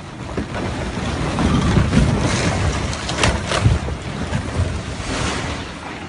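Loud rushing noise with a deep rumble, like strong wind buffeting the microphone, swelling about a second in and easing toward the end, with a few sharp cracks near the middle.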